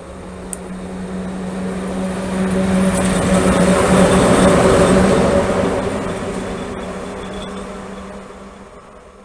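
ET22 electric locomotive running light, passing by on the track: a steady hum with wheel-on-rail rushing that grows louder to a peak about halfway through and then fades away.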